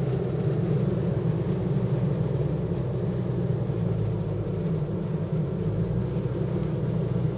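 Steady engine and road noise heard inside a car's cabin while it drives up a mountain road, an even low drone that doesn't change.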